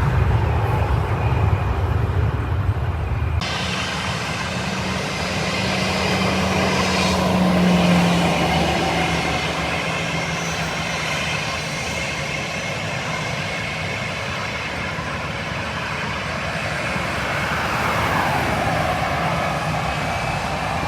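Jet airliner engine noise at an airport. A deep rumble cuts off abruptly about three seconds in and gives way to a Spirit Airlines Airbus A320-family jet running with a steady whine, with a falling tone near the end.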